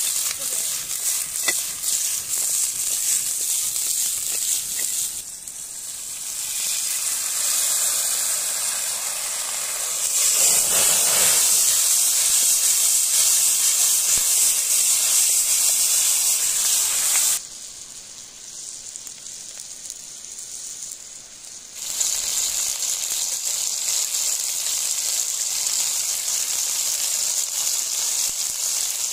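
Food sizzling in a steel wok over a wood fire: a steady, loud frying hiss that drops abruptly to a quieter stretch for a few seconds past the middle, then comes back.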